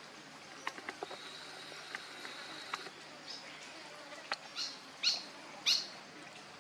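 Three short high-pitched animal calls near the end, each falling in pitch, about half a second apart, over faint scattered clicks and a thin steady high whine.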